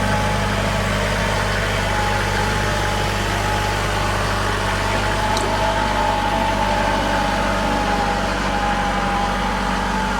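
An engine idling steadily close by, with a steady whine riding over its low running note.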